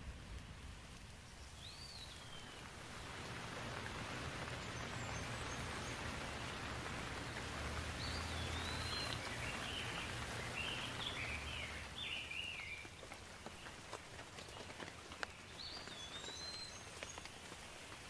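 Steady rain falling, swelling louder for several seconds in the middle and then easing, with a few sharp drip ticks. A bird chirps briefly near the start, several times in the middle, and once more near the end.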